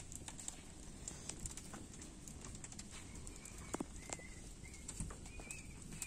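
Wood fire crackling with scattered small pops, and in the second half a bird giving short, repeated chirps.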